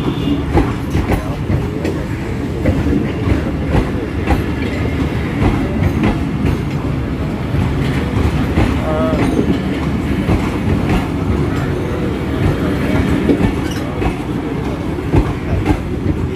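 Train rolling past, with wheels clicking over the rail joints above a steady heavy rumble.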